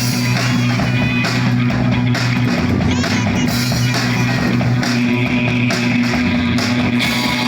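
Live noise-rock band playing loud: guitar over a steady low drone, with irregular crashing hits.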